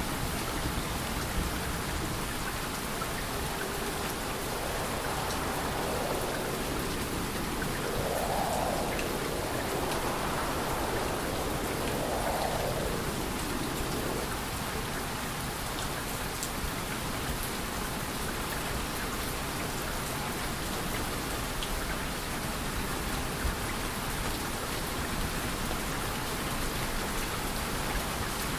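Steady rain falling and pattering on a surface, an even wash of noise, with a few gentle swells rising and falling in the middle.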